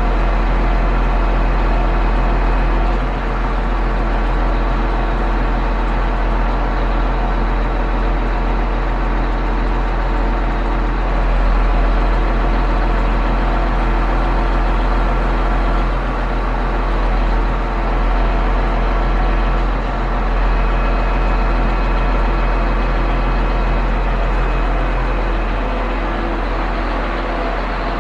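Concrete pump truck running steadily, its diesel engine holding an even note with a deep low hum.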